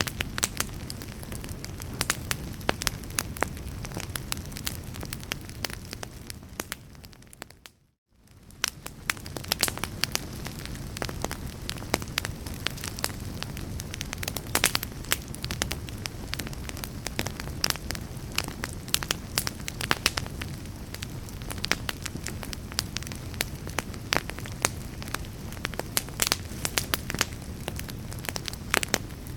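Fire in a fireplace crackling steadily, with frequent sharp pops over a low rumble. About eight seconds in, the sound briefly fades out to near silence and fades back in.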